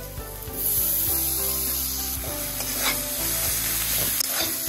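Food frying and sizzling in hot oil in a kadhai. About half a second in the sizzle grows suddenly louder as the leftover ghee residue is tipped into the pan, and a spatula stirs with a few short knocks against the pan.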